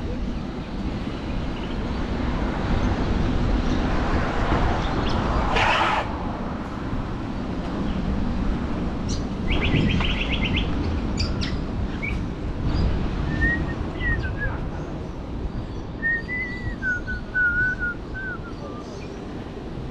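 Several short bird chirps in the second half, over a steady low rumble, with a loud burst about six seconds in and a quick run of ticks around ten seconds.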